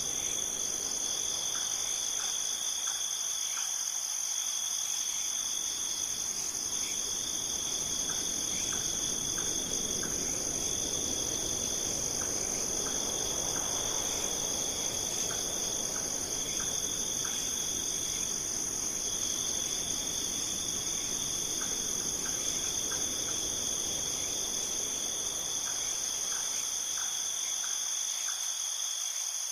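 Chorus of insects trilling without a break: one continuous high trill, with a lower trill that stops and starts every few seconds and scattered faint short chirps over it.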